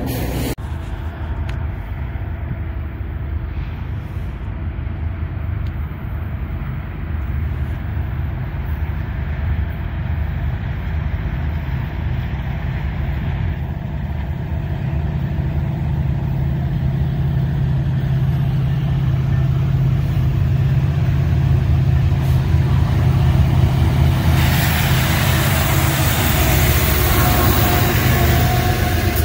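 Freight train's diesel locomotives approaching, a low engine rumble that slowly grows louder. About 25 seconds in, the locomotives pass close and a loud rush of wheel-on-rail noise sets in as the hopper cars start rolling by.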